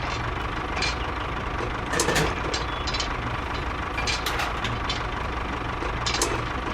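A small engine running steadily, with a few sharp clicks and knocks scattered through.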